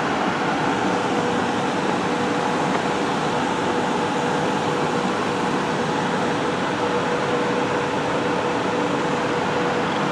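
Class 375 Electrostar electric train standing at the platform, its air-conditioning and auxiliary equipment giving a steady hum with a faint constant tone.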